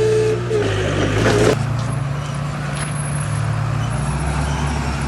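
Heavy diesel earthmoving machine's engine running steadily, with a whine over it. About a second and a half in, a short rising hiss cuts off sharply and the whine stops; the engine runs on.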